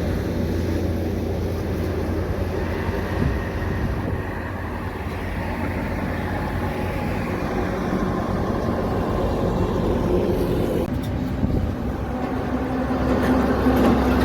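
Heavy truck traffic: a steady low engine rumble with road noise, growing louder near the end as a steady hum comes in.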